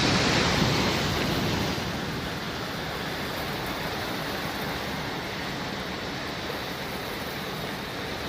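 Sea waves washing on a shore: a louder surge of surf at the start eases off about two seconds in into a steady wash.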